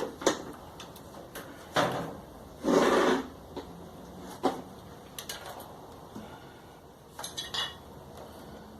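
Clothes dryer on test after a new drum friction ring and bearing: a few irregular knocks and short clatters, with a faint steady low hum from the turning drum from about two and a half seconds in. It runs smooth and quiet, without the noise of the worn ring.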